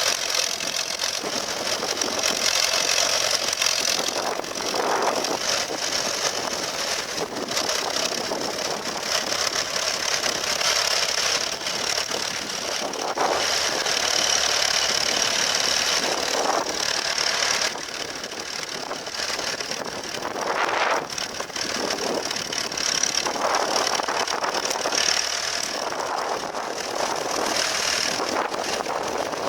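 Vintage tractor engines running while the tractors pull ploughs across a field, the sound swelling briefly a few times.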